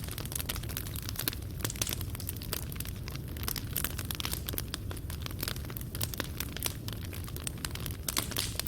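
Fireplace fire crackling: dense, irregular pops and snaps of burning wood and coals over a low steady rumble of the flames.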